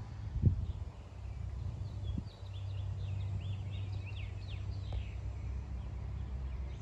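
A small bird singing a quick run of short, high chirps for about two seconds, starting near the middle, over a steady low rumble from wind on the microphone. A couple of soft bumps come in the first two seconds.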